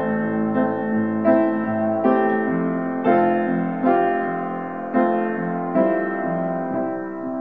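Slow, gentle solo piano music: sustained chords and melody notes struck about once a second, easing slightly in loudness toward the end.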